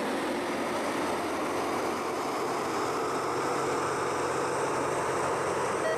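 LORAM rail grinder train rolling past with a steady, dense rumble of diesel engines and wheels on rail. Its grinding stones are lifted while it passes the defect detector.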